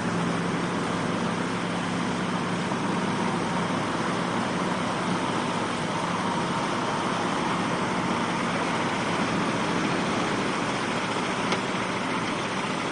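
A heavy vehicle's engine running steadily under a loud, even rush of noise, with a low hum that fades about three seconds in.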